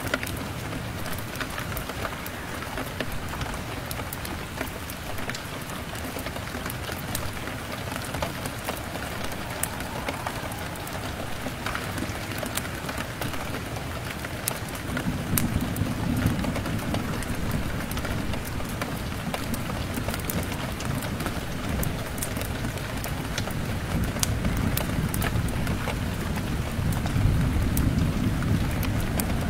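Steady rain pattering on a window, with sharp crackles and pops from a wood fire scattered throughout. About halfway in, a low rolling rumble of thunder comes in and swells near the end.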